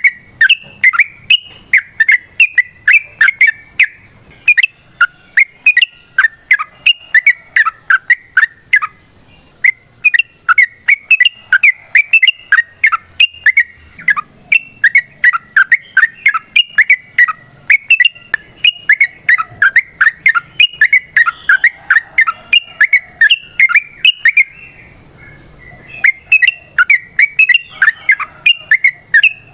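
Yellow-vented bulbul singing a fast, long run of bubbly chirping phrases, with notes gliding up and down several times a second. The run breaks off briefly near the end, then starts again.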